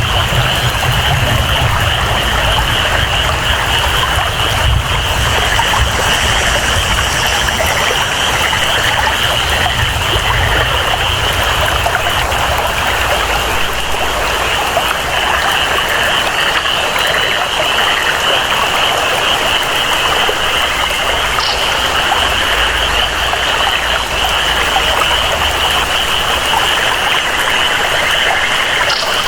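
Rainforest ambience: steady rain and flowing water, with a constant high-pitched chorus of calling animals over a low rumble of moving water.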